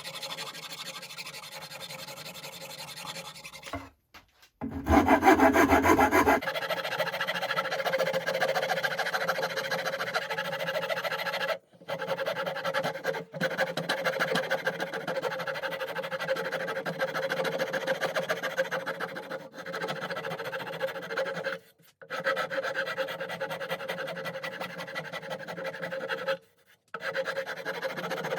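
Hand abrasion on a wooden hatchet handle: quick, steady back-and-forth rasping strokes, broken off abruptly several times, with a louder, coarser stretch about five seconds in.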